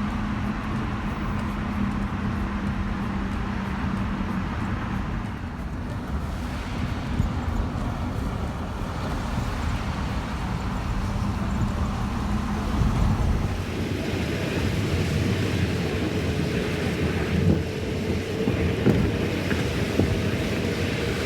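Steady running noise of a high-speed bullet train in motion: a constant rumble and rush with a low hum. About thirteen seconds in, the sound changes: the deep rumble thins and a higher hum takes over.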